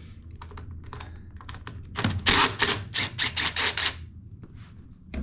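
Socket ratchet clicking: a few faint clicks, then a quick run of about ten sharp clicks from about two seconds in.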